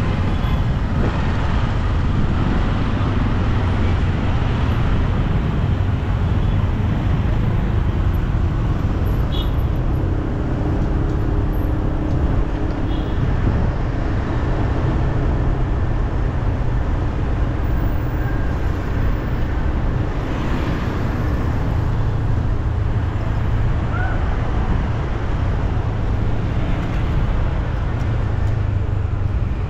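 Steady city traffic noise: a constant low rumble of passing vehicles with a few faint brief squeaks above it.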